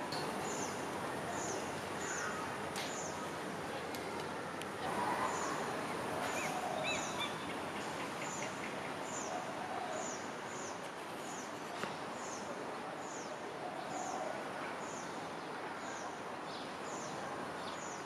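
A small bird repeating a high, thin, falling note about once a second, over a steady hiss of outdoor background noise.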